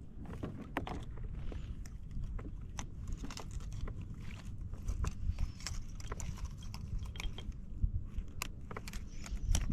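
Irregular light clicks and taps of fishing tackle being handled aboard a kayak, over a steady low rumble.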